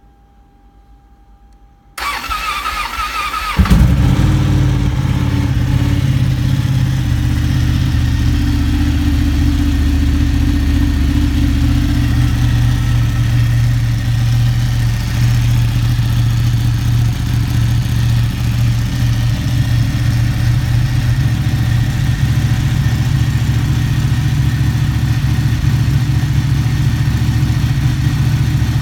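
Ducati 1199 Panigale's Superquadro V-twin engine cranked by its starter motor, catching about three and a half seconds in, then idling steadily.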